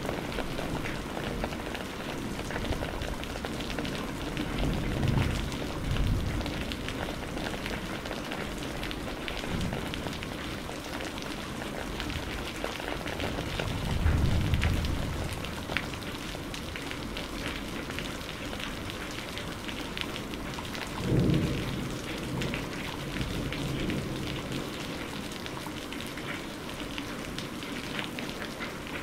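Steady heavy rain hissing and pattering, with three brief low rumbles of thunder rising over it: about five seconds in, about fourteen seconds in, and about twenty-one seconds in.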